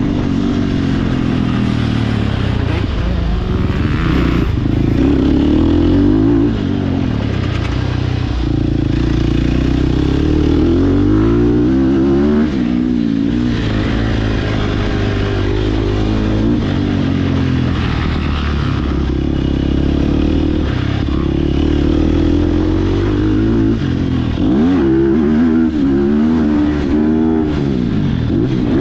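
Sherco SEF300 single-cylinder four-stroke enduro motorcycle ridden hard, its engine revving up and down over and over as the throttle opens and closes. Several quick, deep drops and climbs in pitch come near the end.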